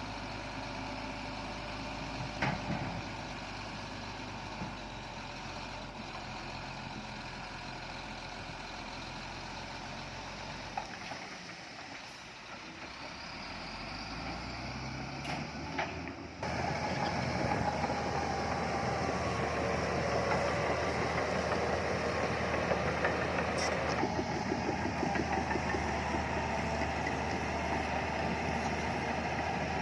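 Heavy diesel earthmoving machinery running, with a few brief metal clanks. The engine sound dips, rises in pitch, and then steps up suddenly to a louder, busier running about halfway through.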